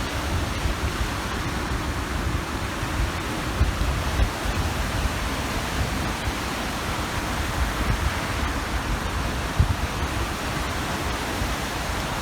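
Waves washing steadily onto the shore of a large reservoir, with wind buffeting the microphone in an uneven low rumble.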